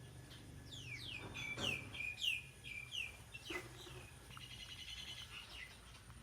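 A songbird singing: a quick run of about eight descending whistled notes, then a fast buzzy trill.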